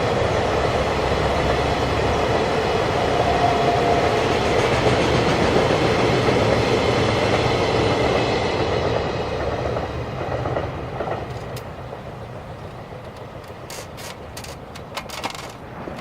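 Freight train of tank wagons rolling past, wheels running on the rails, the noise fading away from about nine seconds in as the train goes by, with a few sharp clicks near the end.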